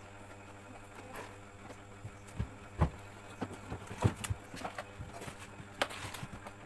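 Scattered clicks and knocks of tools and parts being handled while a washing machine's gearbox and fittings are put back together. Two sharper knocks, about three and four seconds in, are the loudest, over a low steady hum.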